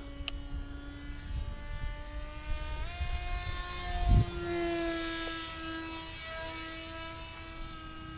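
RC F-22 model airplane's motor and propeller whining steadily in flight. The pitch steps up about three seconds in and wavers a little after that. A brief low thump comes about four seconds in.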